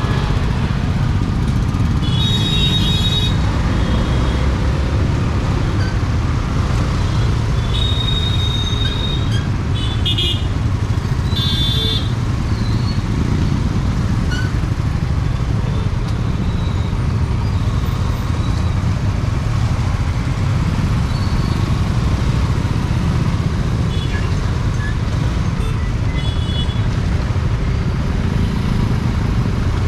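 Riding a motor scooter through city traffic: a steady low rumble of engine and road noise, with other vehicles' horns honking about two seconds in, several times between eight and twelve seconds, and once more faintly near the end.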